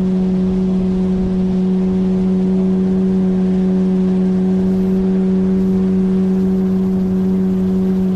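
A 9.8 hp outboard motor running steadily at cruising speed, with a constant drone that holds one pitch.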